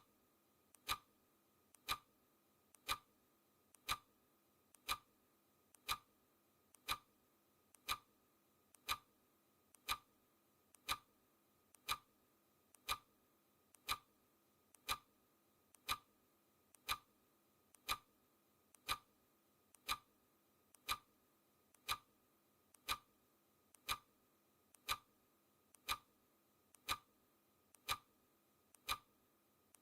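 Steady clock-style ticking sound effect, one sharp tick each second, marking off the seconds of a countdown timer.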